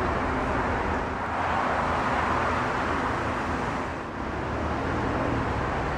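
2011 Chevrolet Tahoe Z71's 5.3-litre Vortec V8 idling steadily, heard from behind the truck, under a steady rush of outdoor noise.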